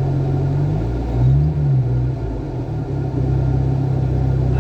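Austin Allegro 1.5's four-cylinder engine running, with a brief rise and fall in engine pitch about a second in, as if revved or changing gear.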